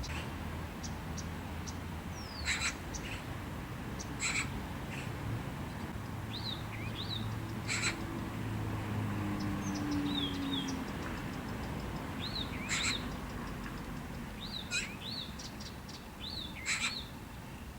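Wild birds calling now and then: a few short, sharp calls and brief high whistles that slide down in pitch, over a steady low background rumble.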